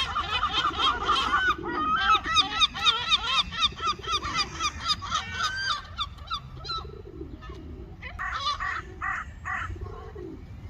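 Gulls calling in rapid runs of repeated, squawking notes. The runs thin out after about six seconds, and a few harsher calls follow near the end.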